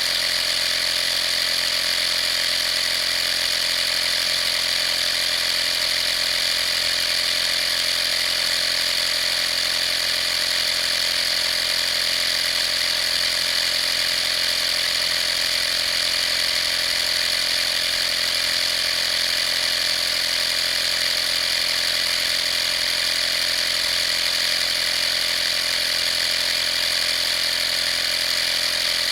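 Vaper 12-volt air compressor running steadily, an even mechanical drone with a high whine on top that does not change.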